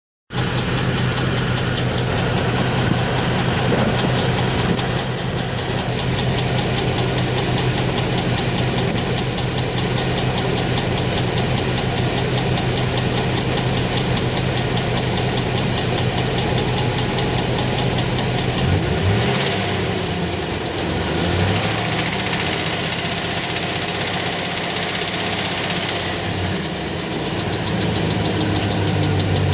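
The 6.0-litre LS2 V8 of a 2008 Chevrolet Trailblazer SS idling with a rhythmic engine knock. Engine speed rises and falls briefly about two-thirds of the way through.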